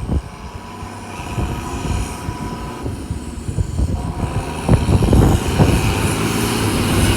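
Tractor engine running, its sound growing steadily louder as it comes closer.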